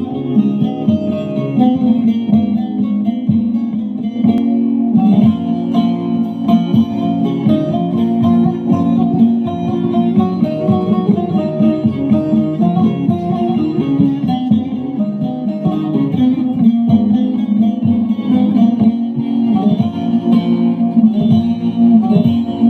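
Instrumental Turkish folk music led by a plucked string instrument playing quick picked notes, with no singing yet.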